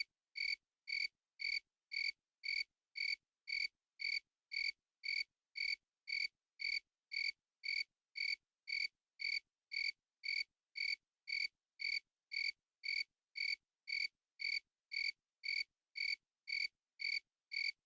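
A single cricket chirping steadily, short, evenly spaced chirps at about two a second with silence between.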